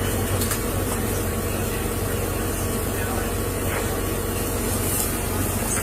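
Steady low hum of idling vehicle engines, with a faint steady tone that drops away near the end.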